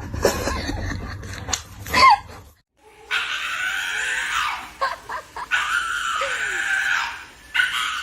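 Low rumbling noise with a few knocks, the loudest a sharp knock about two seconds in. Then, after a brief silence, a loud screaming cry held for about two seconds, twice, with a shorter one near the end.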